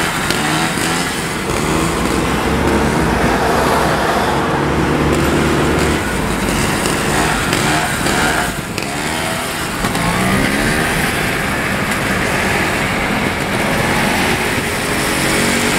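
Trials motorcycle engine revving up and down, its pitch rising and falling again and again as the throttle is worked through a long wheelie, over the steady running of a car and road noise.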